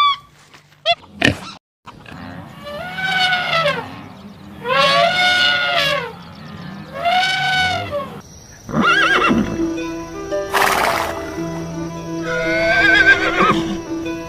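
Horse whinnying: three drawn-out neighs of about a second each, each rising then falling in pitch, and a shorter wavering whinny near the end, over music with steady held tones.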